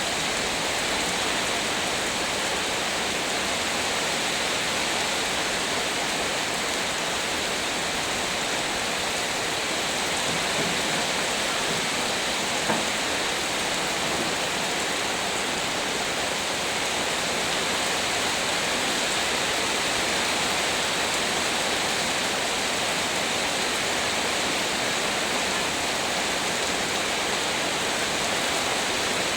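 Heavy rain falling steadily, an even hiss with no let-up, with one small tap about halfway through.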